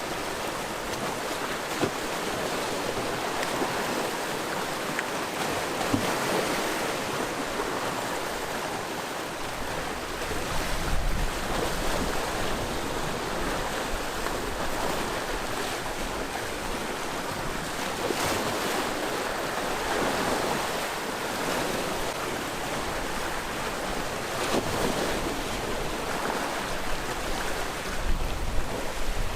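Sea waves washing against the rocky shore in a continuous rush that swells and ebbs every few seconds, with some wind on the microphone.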